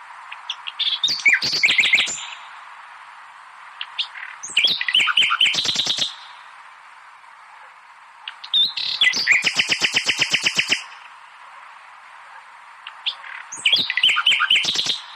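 Songbird singing in four separate phrases of rapid, loud repeated notes, each lasting one and a half to two seconds, with pauses of about two to three seconds between them.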